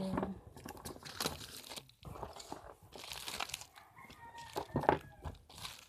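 Rustling and crinkling of a phone box's packaging being handled and opened, in short irregular bursts. Near the end a rooster crows in the background with one drawn-out call.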